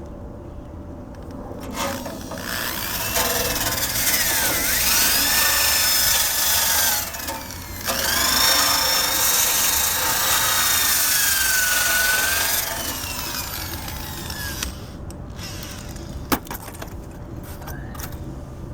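A power drill with a wire-brush attachment scrubbing the steel frame of a 1965 Honda Cub to take off rust and old paint, in two long runs of about five seconds each, its pitch sliding up and down as the load changes. A single sharp click follows near the end.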